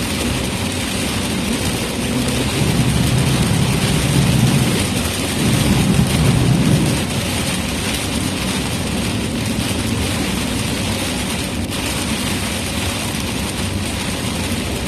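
Heavy rain and road noise from a vehicle driving through a downpour. A low rumble swells twice, a few seconds in and again about six seconds in.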